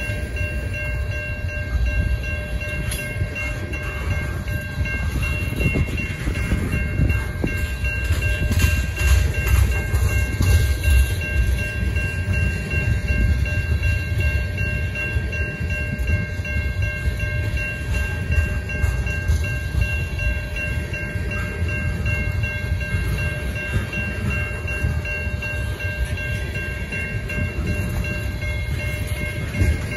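Freight train of tank cars rolling steadily past: a continuous low rumble with irregular clanks of wheels on rail. Over it, a grade-crossing bell rings without a break.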